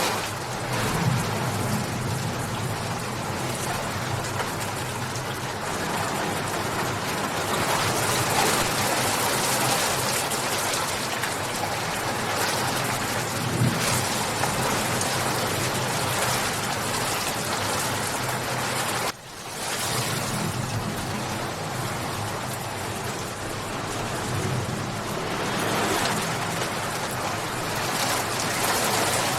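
Steady heavy rain falling and splashing on surfaces, a dense even hiss, which drops out for a split second about two-thirds of the way through before carrying on.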